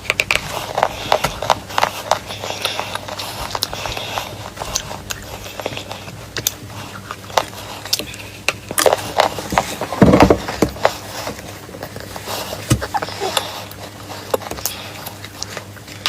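Close-up crunching of pieces of chalk or clay: a dense run of sharp, irregular cracks and snaps, with a heavier low thump about ten seconds in.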